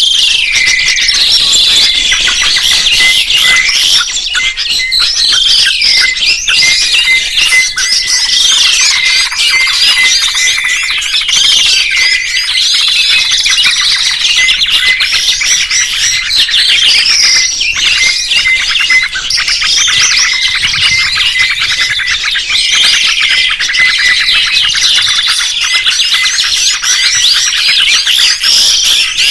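Several songbirds chirping and singing over one another in a dense, continuous chorus of quick high warbles, trills and chirps, with a rapid string of short notes at one pitch repeating beneath them.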